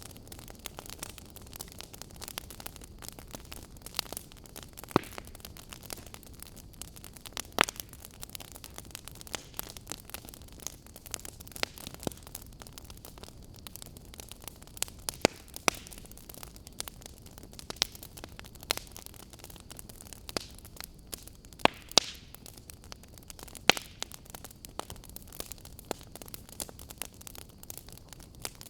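Wood fire crackling in a fireplace: irregular sharp pops and snaps, a few much louder than the rest, over a low steady hiss.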